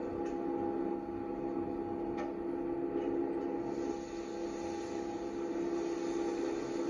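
A steady mechanical hum made of several constant tones, with a few faint clicks in the first seconds.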